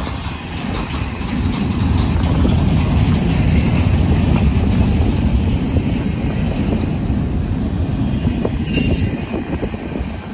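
Double-stack intermodal freight train's well cars rolling past close by: a steady heavy rumble with clicking and rattling of wheels over the rail. A few brief high-pitched wheel squeals cut in during the second half.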